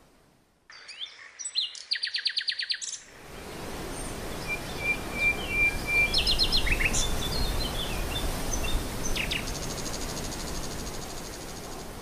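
Songbirds calling and singing. About two seconds in there is a rapid trill of about ten notes. From about three seconds in, scattered chirps and whistles sound over a steady outdoor hiss, and a fast high trill runs through the last few seconds.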